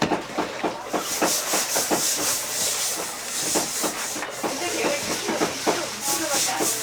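Rapid strokes of a kitchen knife knocking on a cutting board as fish is cut up for raw-fish slices, several strokes a second. A hiss comes and goes over it from about a second in.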